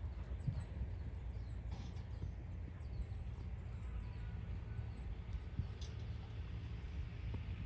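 Small birds chirping over and over in quick, high, falling notes, over a steady low rumble.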